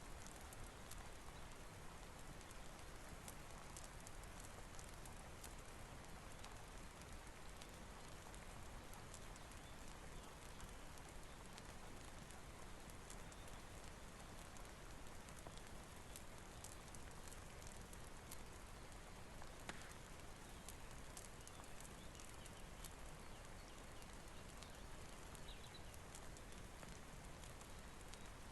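Quiet rain-and-fireplace ambience: a steady soft rain hiss with scattered small crackling ticks.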